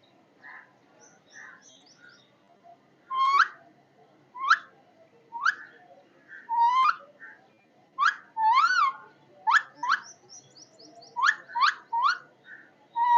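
A pet parrot calling: short, sharp whistled calls that sweep up or down in pitch, coming roughly once a second from about three seconds in, some in quick pairs, after a few soft quiet chirps.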